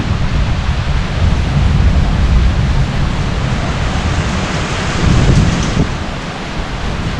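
Heavy downpour of rain with rolling thunder: a deep, steady rumble under the hiss of the rain.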